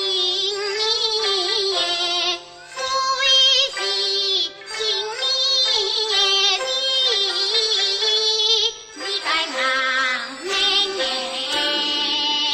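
Teochew opera singing: a voice sings long, wavering, ornamented phrases with brief breaks between them, over instrumental accompaniment.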